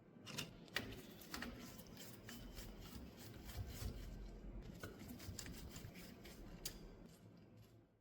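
Hand work on small metal typewriter parts: a quick run of light clicks and scraping strokes, with no steady rhythm.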